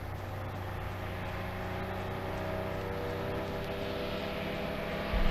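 1936 Chevrolet's six-cylinder engine pulling hard up a steep grade from a standing start: a steady drone that slowly grows louder, heard through an old film soundtrack.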